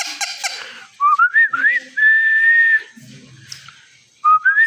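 Whistling: a short wavering, rising whistled phrase, then a long held high note, and another rising whistle near the end. A raspy call trails off at the very start.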